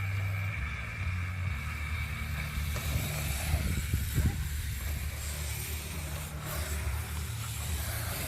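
BMX tyres on dirt trails over a steady low rumble, louder and rougher about three to four and a half seconds in, with a sharp click a little after six seconds.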